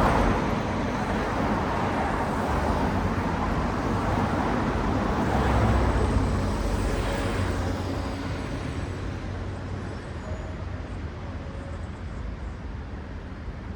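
Road traffic: cars passing, a steady rush of tyre and engine noise that swells again about six seconds in, then eases off to a quieter background hum.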